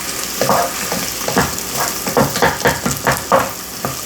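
Uncooked rice sizzling as it toasts in butter and oil in a pot, with a spoon stirring through it in repeated scraping strokes.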